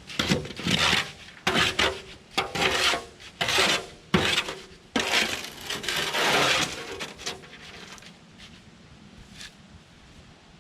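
Steel bars being bent and handled: a run of short metallic clinks and scrapes for the first seven seconds or so, then it goes quieter.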